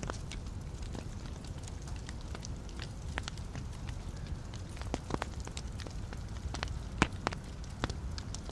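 Wood fire burning in a fireplace: a steady low rumble of flame with frequent sharp crackles and pops of the logs, the loudest pop about seven seconds in.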